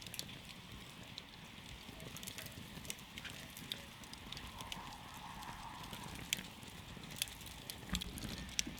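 Wood campfire crackling: irregular sharp pops and snaps over a steady low hiss and rumble of the flames, with several louder pops in the second half.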